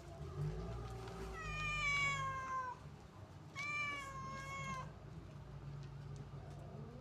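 A cat meowing twice: two long meows about a second apart, the first sliding down in pitch.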